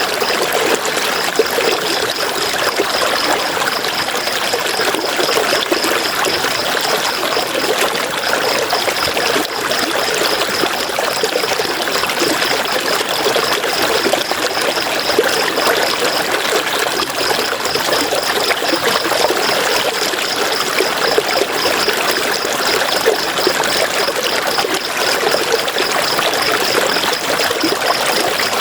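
River water running and splashing over rocks, a steady rushing and trickling. A rapid, high-pitched pulsing runs alongside it, breaking off briefly twice.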